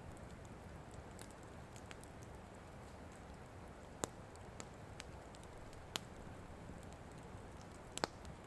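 Wood campfire crackling: a low steady rumble of burning with scattered sharp pops, the loudest about four, six and eight seconds in.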